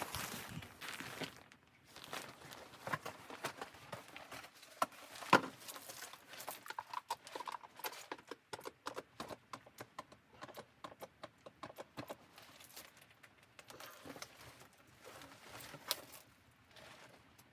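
A run of short, irregular knocks and clicks, at times several a second, with one sharper knock about five seconds in.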